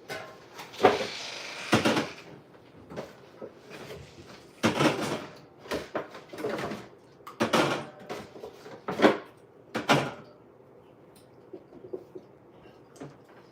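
A series of sudden household knocks and clatters, about seven of them in the first ten seconds, then only a few faint clicks.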